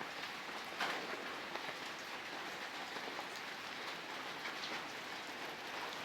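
Steady rain falling, a continuous hiss with a few louder drops standing out, the clearest about a second in.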